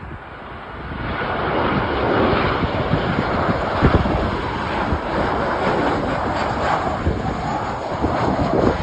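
Jet engines of a Boeing 737 airliner on final approach to land: a wide rushing noise that swells about a second in and then holds steady. Wind buffets the microphone underneath.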